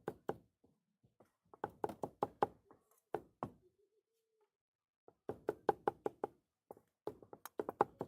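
A knife chopping quickly on a cutting board: three short runs of sharp knocks, about five or six a second, with brief pauses between the runs.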